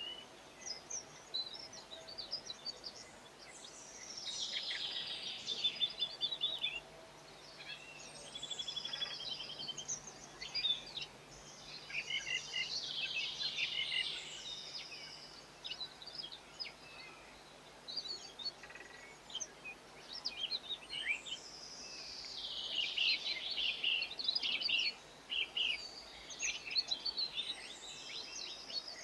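Small garden songbirds chirping and twittering in quick high bouts of a few seconds each, again and again, over a faint low steady background hum.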